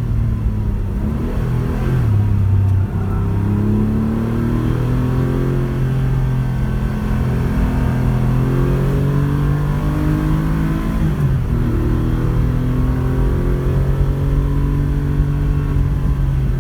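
Porsche 911 rally car's flat-six engine pulling under load, its pitch climbing slowly and dropping sharply twice, about two seconds in and again about eleven seconds in, as at gear changes.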